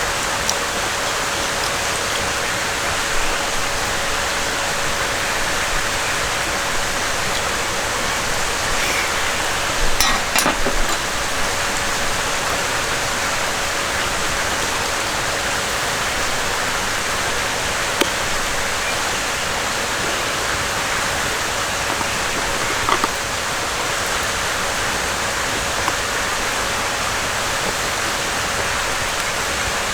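Valley stream running: a steady rush of flowing water, with a few light clicks or knocks about ten seconds in and again later.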